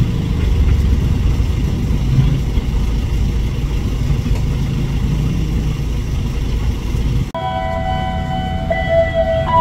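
Steady low rumble of a long-distance passenger train rolling away over the track. About seven seconds in it cuts off abruptly, and a chime-like set of clear, steady tones takes over, shifting pitch in steps.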